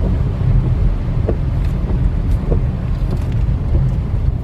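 A vehicle on the move: a steady low rumble of engine and road, with wind buffeting the microphone.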